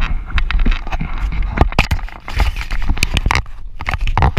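Car driving over gravel: tyres crunching and loose stones knocking irregularly against the body, over a steady low rumble from the engine and road.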